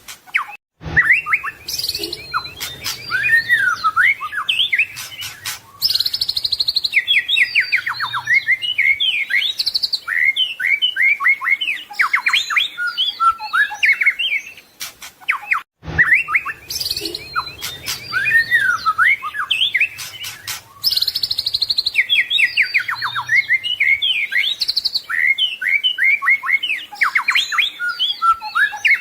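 White-rumped shama (murai batu) singing a dense, varied song of quick whistles, rapid trills and mimicked call phrases. The same passage of about fifteen seconds repeats, after a brief break about a second in.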